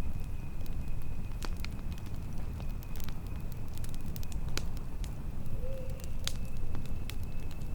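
Campfire burning: irregular sharp crackles and pops from the burning wood over a steady low rumble, with a faint thin high tone held throughout.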